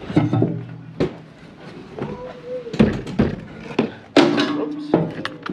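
Clunks, knocks and a few short squeaks from the truck's air filter housing being handled as the filter elements are changed. There is a hard knock about a second in and a louder clunk after about four seconds.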